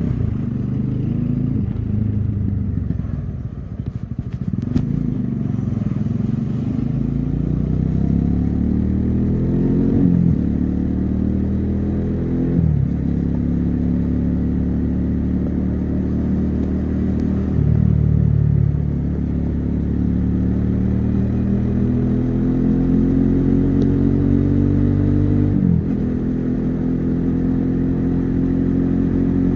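Bajaj Dominar 400's single-cylinder engine and exhaust under way on a highway, the engine note climbing as it accelerates. The revs ease off briefly a few seconds in, then rise again, dropping sharply at gear changes about ten seconds in, a few seconds later, and near the end.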